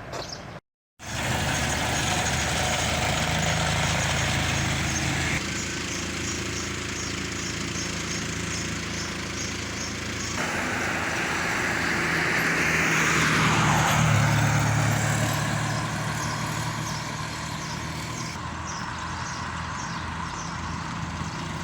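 Road traffic: vehicle engines running steadily, with one vehicle passing close by, swelling and fading about two-thirds of the way through. The sound cuts out briefly about a second in and changes abruptly twice more.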